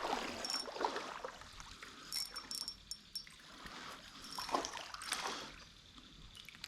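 Shallow river water trickling, with a few light splashes.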